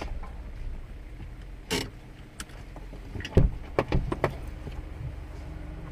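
Steady low hum of a car heard from inside, with a few short knocks and clicks, most of them in the middle of the stretch.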